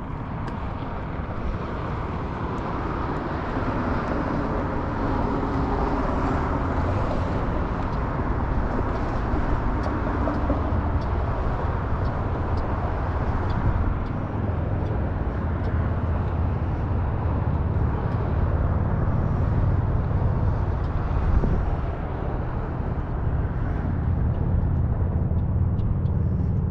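Steady road and engine noise of a car being driven, a low rumble that grows a little louder after the first few seconds, with a faint hum for several seconds early on.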